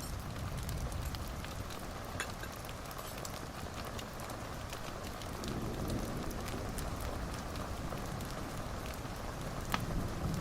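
Wood fire in a fireplace crackling over a steady low rumble, with scattered small pops throughout and one sharper pop near the end.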